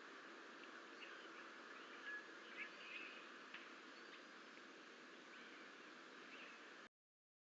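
Faint steady outdoor hiss from a wildlife camera's microphone, with a few brief, faint bird chirps about two to three seconds in. The sound cuts off abruptly near the end.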